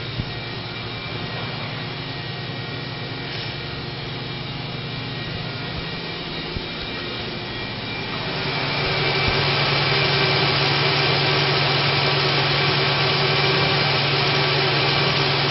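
A 2005 Chevrolet Equinox's 3.4-litre V6 running at a steady idle, becoming louder and brighter about eight seconds in with no change in engine speed.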